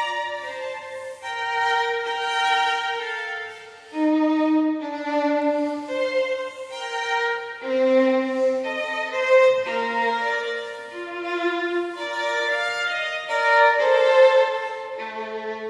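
Background music: a solo violin, or a small bowed-string group, playing a slow melody of held notes, often two at once.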